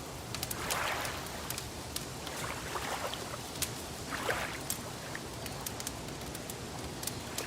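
Wood fire crackling with frequent sharp pops over a steady hiss, and soft swishes of lake water lapping three times.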